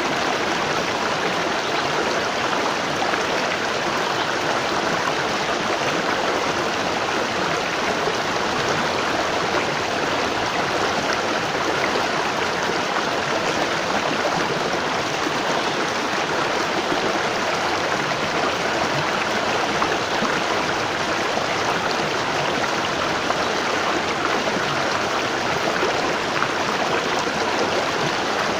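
Waterfall pouring in a steady, even rush of falling water.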